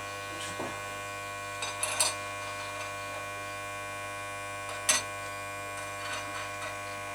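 Steady electrical hum, with a few light knocks or taps, the loudest about five seconds in.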